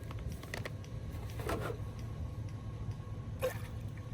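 Light clicks and two short knocks of cooking gear being handled during meal prep, over a steady low rumble.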